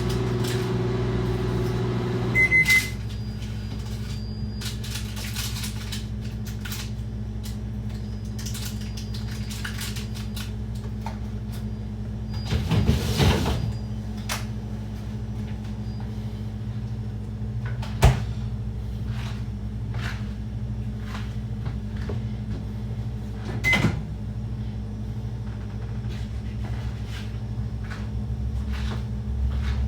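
Microwave oven running with a steady hum, with a short high keypad beep about two and a half seconds in and another near the end. A few knocks and clatters of kitchen handling sound over it.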